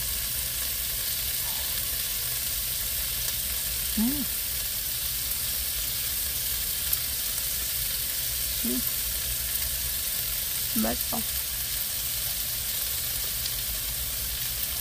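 Meat sizzling steadily in a hot frying pan as it cooks.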